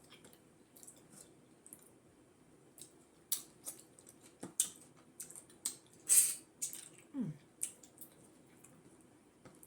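Close-up wet mouth sounds of someone eating fufu with peanut butter soup: an uneven string of sticky smacks and clicks, loudest about six seconds in, with a short low hum dropping in pitch about seven seconds in.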